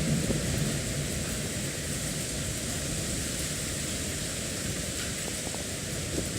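Typhoon storm noise: wind and rain making a steady rushing sound, with a choppy low rumble underneath.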